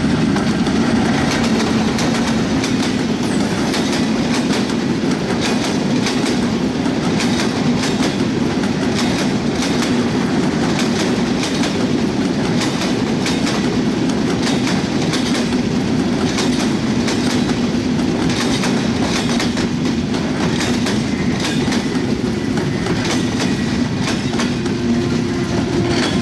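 Intercity express train passing at speed, its wheels clattering steadily over the rail joints with a constant rumble underneath.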